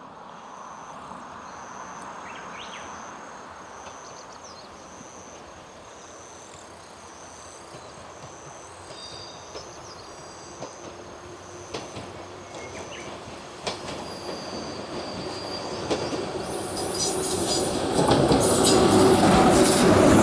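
A four-car 103 series electric commuter train approaching a level crossing, growing steadily louder, then passing close by in the last couple of seconds with loud wheel-on-rail noise.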